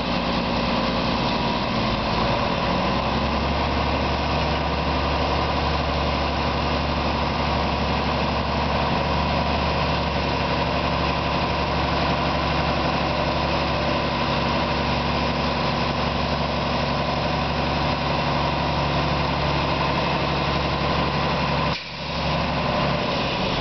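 A 2003 Mack MR690S refuse truck's diesel engine idling steadily. The sound dips briefly near the end.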